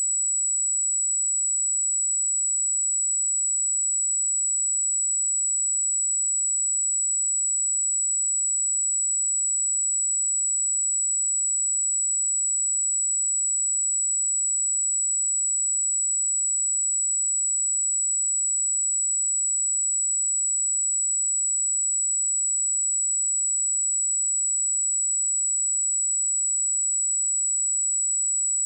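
A steady, unbroken pure sine tone at 7847 Hz, a single high-pitched test tone for checking speakers and headphones.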